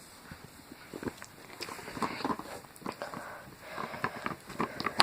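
A dog moving about and dragging something across the floor: irregular clicks, taps and scuffs, with a few louder knocks near the end.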